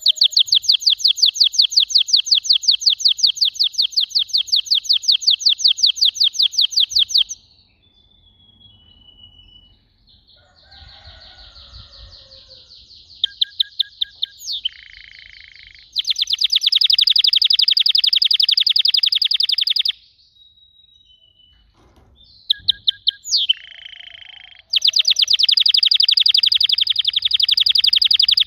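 Domestic canary singing: long, rapid rolling trills of repeated high notes several seconds each, broken by quieter warbling phrases, a few sharp sweeping notes and short pauses.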